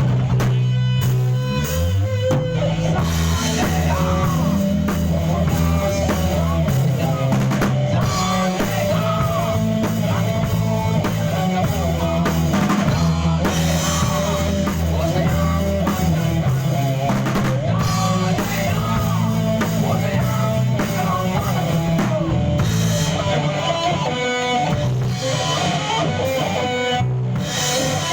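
Rock band playing a song: drum kit, bass and electric guitar, with a wavering melodic lead line above a steady bass.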